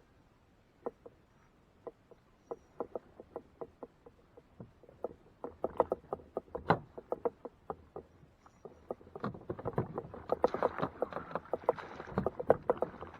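Water lapping and slapping against a kayak hull in short, irregular knocks. They come more often as it goes on and turn into busier splashing about two-thirds of the way in.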